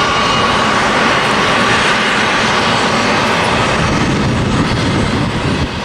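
Boeing 757 jet engines, a loud steady jet noise with a high whine in the first couple of seconds that then fades.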